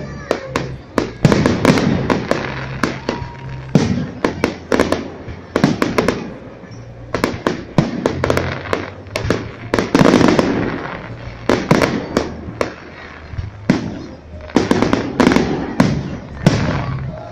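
Aerial fireworks salute bursting in dense volleys: many sharp bangs and crackling reports, with the heaviest runs near the start, about ten seconds in and about fifteen seconds in.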